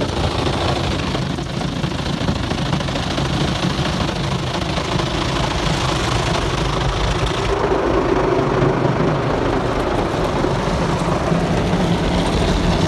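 WashTec SoftCare 2 Pro automatic car wash running on the car, probably with its tyre scrubbers working the wheels: a steady rumble and hiss of machinery, spray and brushes. About seven and a half seconds in, the high hiss drops away and a lower hum comes up.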